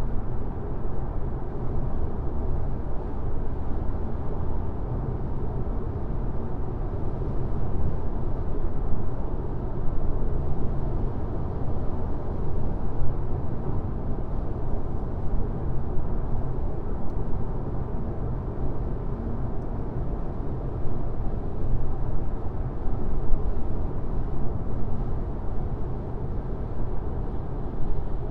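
Car driving at highway speed: a steady, low rumble of tyre and road noise with no changes.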